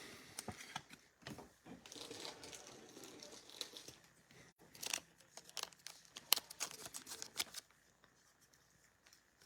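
Faint rustling and crinkling of trading cards and plastic card sleeves being handled, with a run of light clicks and scrapes in the middle that stops about two seconds before the end.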